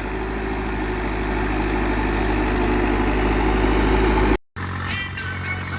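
A vehicle engine running steadily, its low hum growing slightly louder, cut off briefly about four and a half seconds in before the engine sound resumes.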